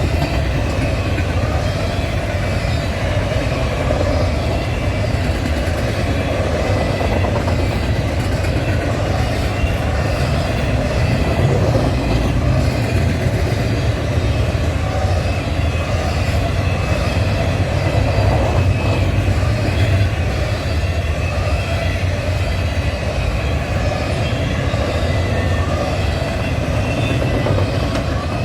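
A long freight train's cars rolling past on the track: a loud, steady rumble with faint, regularly repeating clicks of wheels over the rail joints.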